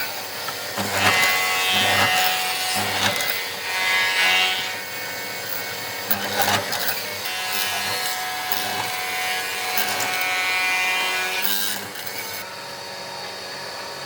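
An electric power tool running while it works wood, its motor whining steadily under a rough cutting noise that rises and falls with the load, then drops quieter near the end.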